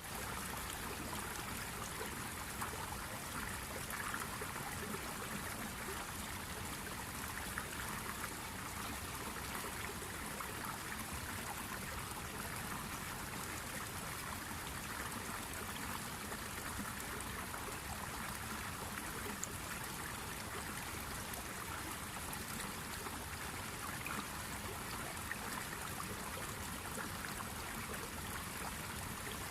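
A steady, even rushing noise that starts suddenly out of silence and holds unchanged, like flowing water or wind.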